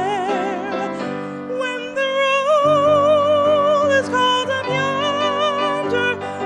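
Female solo voice singing a gospel hymn with wide vibrato on long held notes, accompanied by piano.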